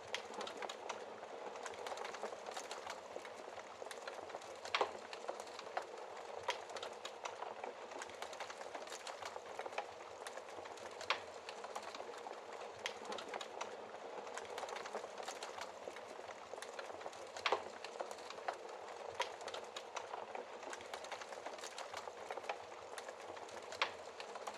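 Wood fire burning in a fireplace: a steady hiss with frequent small crackles and a few louder, sharp pops spread through.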